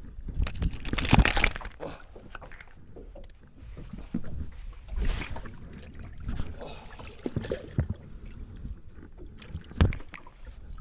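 Irregular knocks, bumps and rustles of people moving and handling gear in a small fishing boat. The loudest stretch comes about a second in, and there is a sharp knock near the end.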